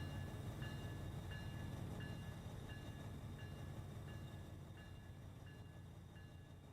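A railroad grade-crossing bell dings about one and a half times a second over the low rumble of a freight train. The rumble fades steadily.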